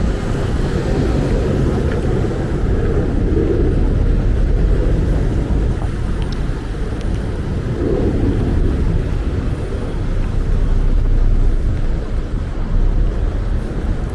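Street traffic noise: a steady low rumble of passing vehicles, swelling about four seconds in and again near eleven seconds.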